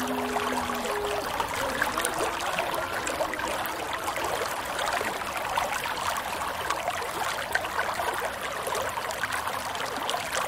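Running water trickling and babbling steadily, as in a small stream or canal.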